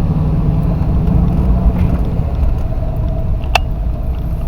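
Car engine and road rumble heard from inside the moving car's cabin: a steady low drone. There is a single sharp click a little past halfway through.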